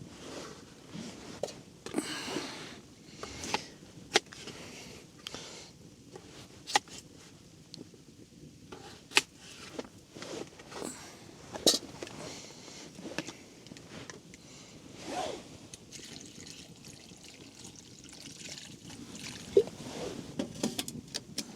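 Water being poured into a pot of cut potatoes, with scattered sharp knocks and clicks of cookware being handled.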